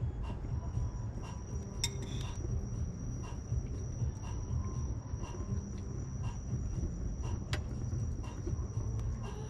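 Wood bonfire burning with a steady low rumble and two sharp pops, about two seconds in and near the end. Crickets chirp over it at an even pace of about two a second, with a thin steady high trill.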